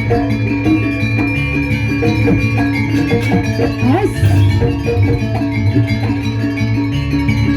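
Gamelan music accompanying a dance: ringing metallophone and gong tones over steady drumming, with a short sliding pitch about four seconds in.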